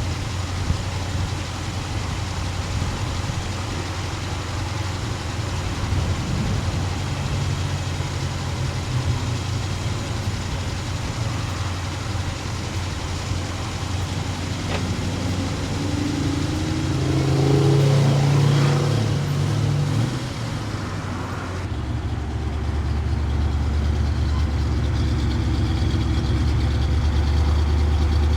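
Chevrolet 396 big-block V8 idling with a steady low rumble, swelling and rising briefly in pitch a little past the middle. About three-quarters of the way through the sound cuts abruptly to a smoother, steadier idle.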